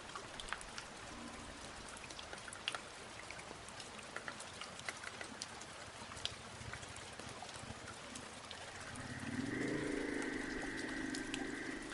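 Rain falling, with many separate drops ticking sharply on surfaces close by. About nine seconds in, a steady droning tone comes in over the rain and holds until the end.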